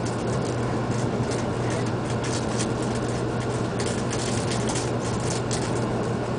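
Cabin noise of a Shinkansen-type electric train running along the line: a steady low hum under an even rushing noise, with irregular high crackles, mostly in the middle.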